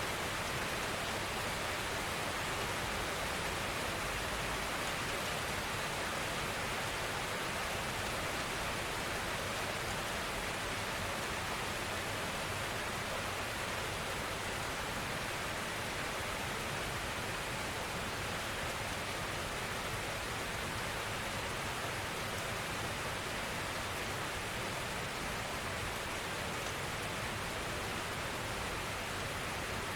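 Steady rainfall: an even hiss of many drops, without distinct individual hits.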